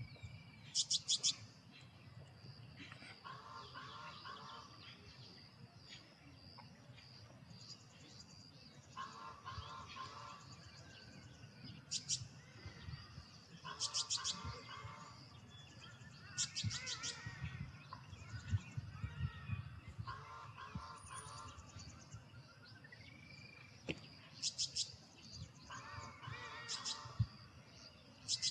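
Male Carolina wren singing: short, loud bursts of rapidly repeated ringing notes, coming several times, with quieter, lower-pitched phrases in between.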